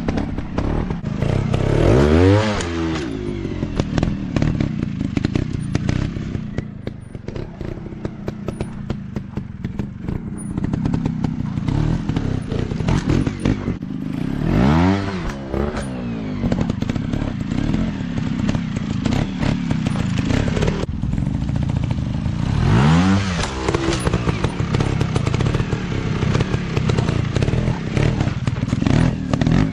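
Dirt bike engines running, with the revs swinging up and back down four times as the throttle is opened and closed, and lower, steadier running between. Short clattering clicks run through it.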